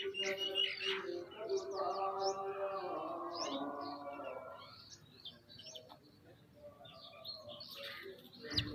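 Several birds chirping and calling over one another in many short chirps. A lower, steadier pitched call runs through the first half and fades out. A sharp click comes near the end.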